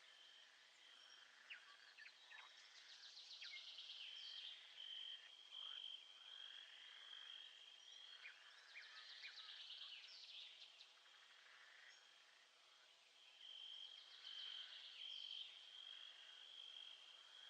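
Faint birdsong, many short chirps and sweeping calls, over a steady high trill that comes and goes, as from an insect.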